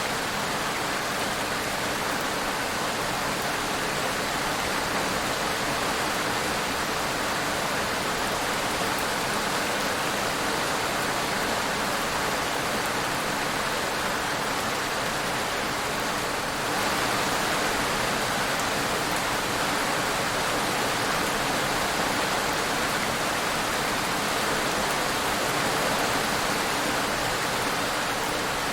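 Steady rain, an even hiss without thunder or distinct drops, with a slight step up in loudness a little past halfway.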